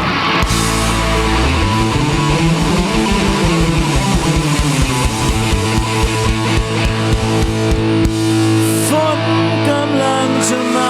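Rock band playing the instrumental intro of a song: electric guitars and bass over a steady drum beat. About eight seconds in, the beat drops away, leaving held guitar chords.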